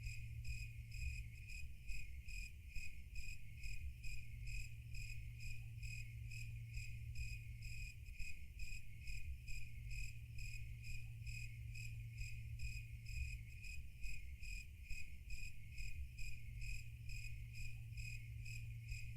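Crickets chirping in an even, rapid rhythm, a steady nature-sound bed, over a low steady hum.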